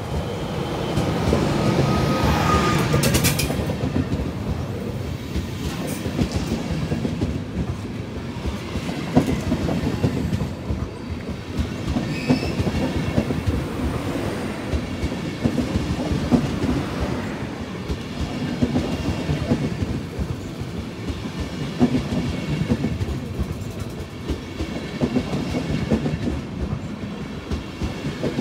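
DB Class 101 electric locomotive passing close by, followed by its Intercity coaches, loudest in the first few seconds as the locomotive goes by. The coach wheels then keep up a steady clickety-clack over the rail joints, with a short high squeal about twelve seconds in.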